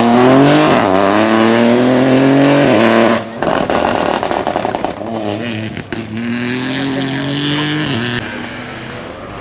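Rally car engine at full throttle, rising in pitch for about three seconds before a sharp lift. A burst of crackles and pops follows, then it pulls hard again, rising until the throttle shuts near the end.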